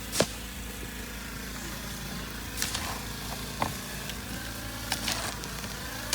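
An engine running steadily at an even speed, with sharp scraping knocks every second or two on top of it, the loudest just after the start.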